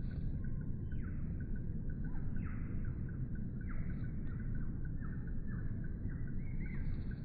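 Small birds calling in a series of short downward-sliding notes, coming faster in the second half, over a steady low rumble.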